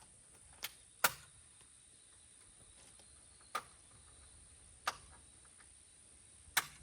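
Five short, sharp clicks or taps spread unevenly through a faint, steady background.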